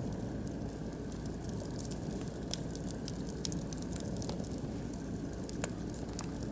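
Oak and beech wood fire crackling, with scattered sharp pops and snaps over a steady low rumble.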